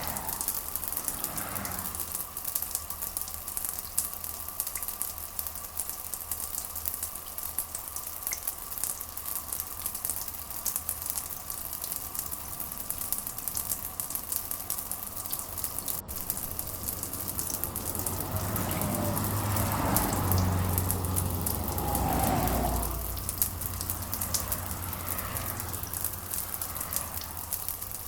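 Steady rain falling, a dense hiss with a fine crackle of drops. About two-thirds of the way in a low rumble swells for a few seconds, then fades.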